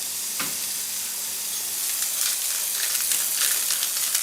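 Vegan burger patties frying in oil in a pan on high heat: a steady sizzle with fine crackling and a single sharper click about half a second in.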